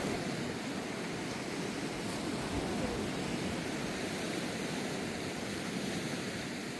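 Sea surf on a beach: a steady, even hiss of waves with no distinct breaks.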